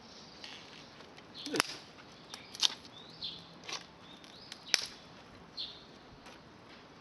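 Campfire wood popping sharply, four loud cracks roughly a second apart, with birds chirping in the background.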